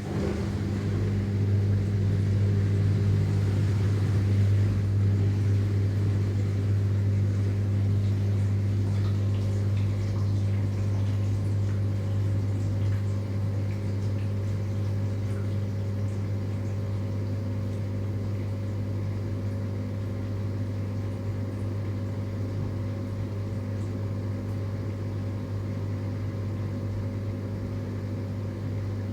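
Dishwasher running mid-cycle: a steady low motor hum from the wash pump with a faint wash of noise above it, a little louder in the first few seconds and then easing slightly.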